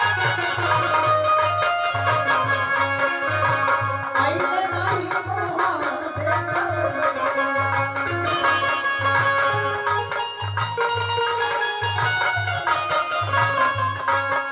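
North Indian devotional folk music (nirgun) with a steady, evenly repeating drum beat under a gliding melody line.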